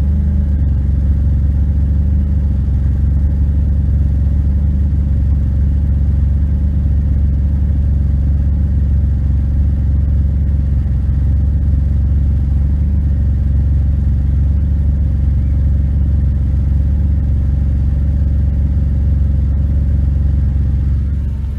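BMW 535i E34's 3.5-litre straight-six idling steadily through a straight-through exhaust, a loud, deep, even drone with no revving.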